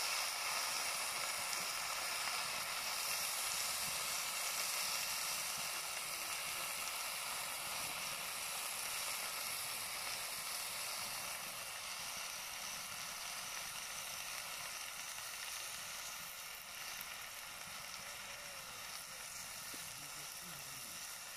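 Food frying in hot oil: a steady sizzle that slowly dies down.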